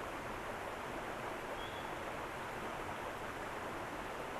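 A small, low-running creek flowing, a steady even sound of water.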